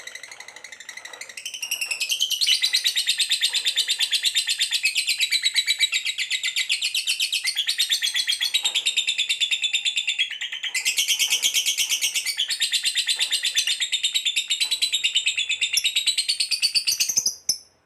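Canary song: long runs of rapid, evenly repeated trill notes, high-pitched, changing to a new trill every few seconds, then cutting off suddenly near the end.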